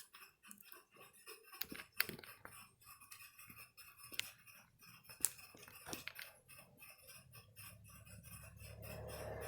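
Faint, scattered clicks and taps from small laptop parts and tools being handled during disassembly, about five sharp ones spread out. A low hum comes up in the last couple of seconds.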